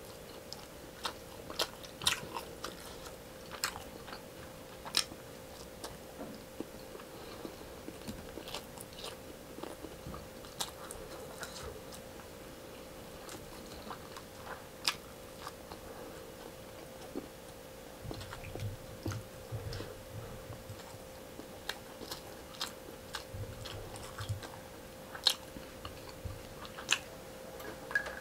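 Close-up mouth sounds of chewing and biting a mouthful of rice and fried tilapia, with sharp clicks and crunches at irregular intervals. A steady faint hum runs underneath.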